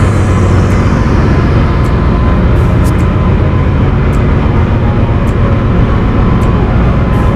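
Loud, steady drone of ship's engine-room machinery, a constant low hum with dense noise over it.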